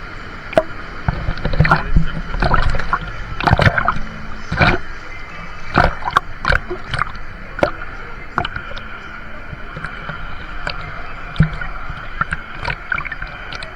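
Water splashing and sloshing around a tube rider in a fast-flowing wave river, over a steady rush of water. The splashes come thick and hard through the first half, then ease to scattered slaps.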